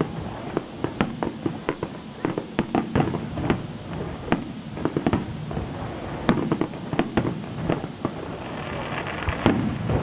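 Fireworks display: an irregular run of sharp bangs and crackling reports, several a second.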